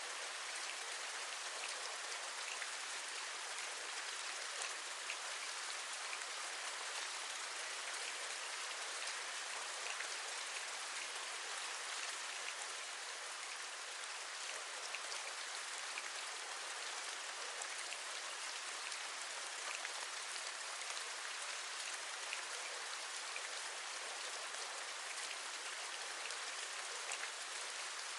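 Steady rain falling, a continuous hiss with a dense patter of individual raindrops tapping, as on a window ledge.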